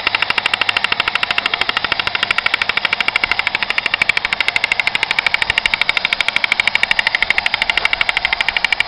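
Battery-operated tin toy helicopter running, its rotor-sound mechanism clattering in a rapid, even rattle of about ten clicks a second.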